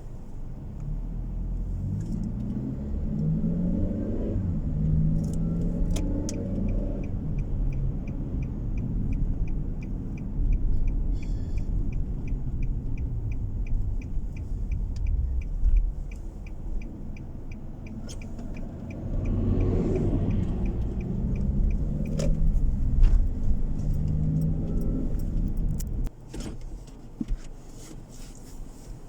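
Car engine and road noise heard from inside the cabin, the engine pulling away with a rising pitch. Through a quieter middle stretch, a turn-signal relay ticks steadily about three times a second. The engine then picks up speed again with a rising pitch and drops to a low level near the end.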